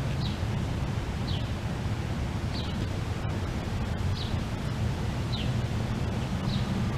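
A bird repeating a short, high, falling call about once every second, over steady low background noise.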